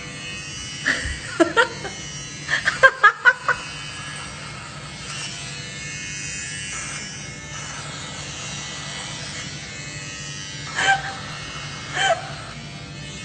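A small electric motor buzzing steadily, with a cluster of short, sharp, pitched sounds about one to three and a half seconds in and two more near the end.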